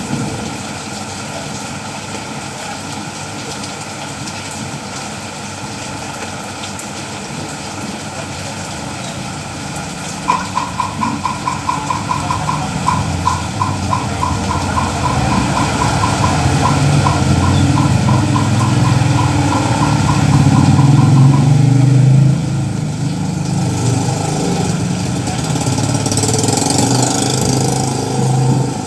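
Steady rain with a motor vehicle's engine rumbling louder through the middle, joined for about ten seconds by a rapid electronic beeping, about three beeps a second. A brief hiss comes near the end.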